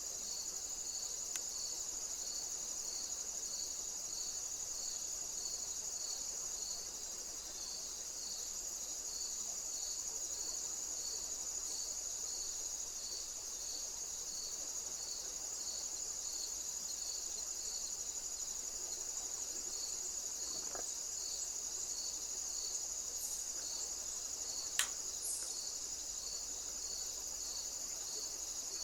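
Insects singing: a steady high-pitched trill, with a second insect chirping regularly about twice a second. A single sharp click comes near the end.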